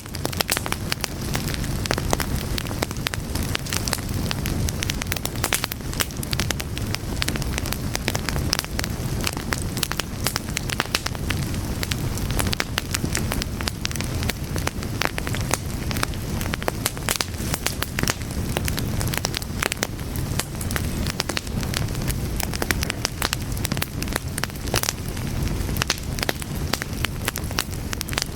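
Fire burning steadily, with a low rumble and many sharp crackles and pops of burning wood.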